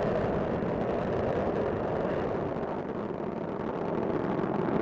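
Space Shuttle Discovery's solid rocket boosters and main engines firing during ascent: a steady, dense rocket rumble that eases slightly about three seconds in and then builds again.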